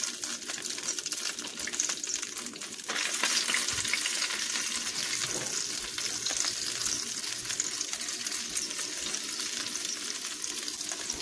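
Flour-dredged chicken liver pieces frying in a pan of hot olive oil: a steady crackling sizzle that gets louder about three seconds in.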